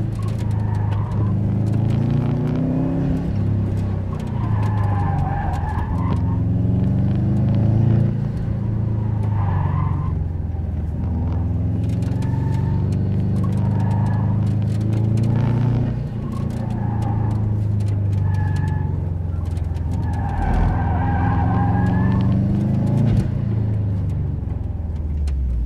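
Subaru WRX's turbocharged flat-four engine revving up and down hard from inside the cabin during an autocross run, with the tyres squealing through corners several times.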